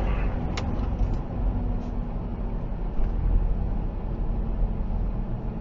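Steady low rumble of a car driving, with a faint steady hum and a single sharp click about half a second in.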